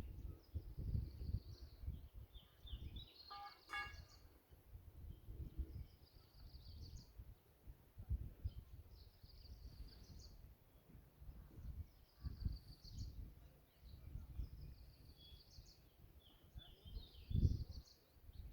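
Wind buffeting the microphone in gusts, with small birds repeatedly giving short high chirping phrases every second or two.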